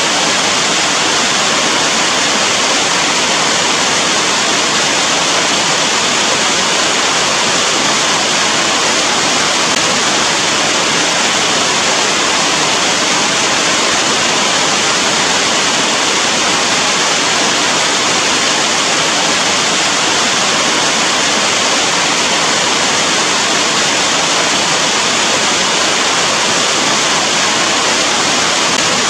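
Steady rainfall, a dense unbroken hiss that stays even throughout.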